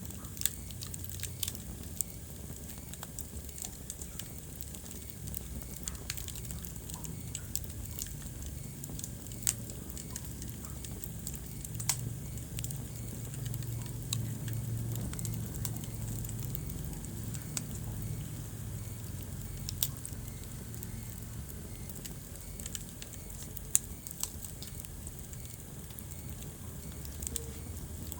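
Wood fire burning in a fireplace: irregular sharp crackles and pops over a low, steady rumble of the flames, with one louder pop near the end.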